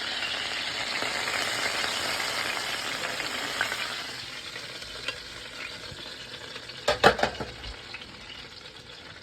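Chicken breasts searing in olive oil in a skillet, sizzling strongly at first and then dying down after about four seconds. A few quick knocks come about seven seconds in.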